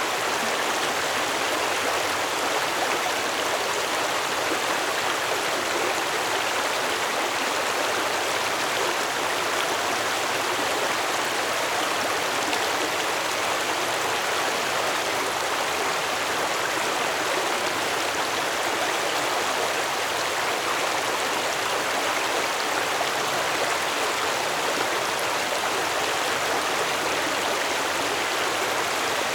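Stream water flowing, a steady even rushing with no changes.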